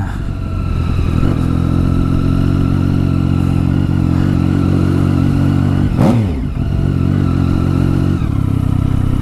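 Triumph Tiger 1050's three-cylinder engine with a new exhaust, running steadily while riding at low speed. About six seconds in the revs drop and pick up again.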